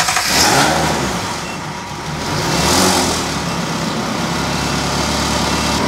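Ferrari engine running at idle while it warms up to temperature, a steady engine sound that swells briefly twice, about half a second in and about three seconds in.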